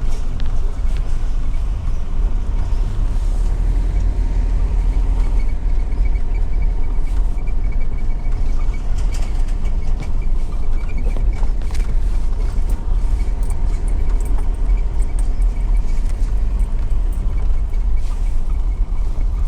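Car driving along a campground track: a steady low rumble of engine and tyres.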